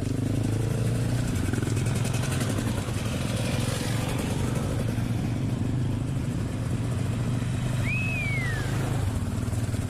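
Dirt bike engine running at a steady pace while riding, a constant drone under rushing noise. About eight seconds in there is one short high falling whistle-like sound.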